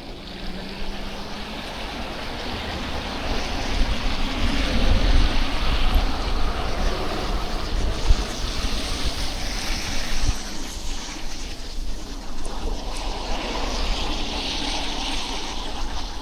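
City traffic hissing through a snowy street, the tyre noise of passing vehicles swelling and fading in waves, with wind rumbling on the microphone.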